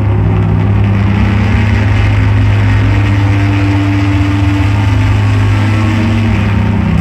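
Loud live psychedelic drone noise music: a heavy, steady low hum under a dense wash of noise, with held tones above it that shift slowly, one coming in higher about three seconds in.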